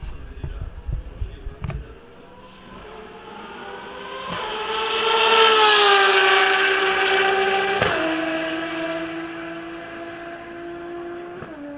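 A Ferrari V12 track car approaching and passing at speed. The engine grows loud and its pitch slides down as it goes by, then drops in two sudden steps, about eight seconds in and near the end, as it upshifts pulling away. Low buffeting on the microphone in the first two seconds.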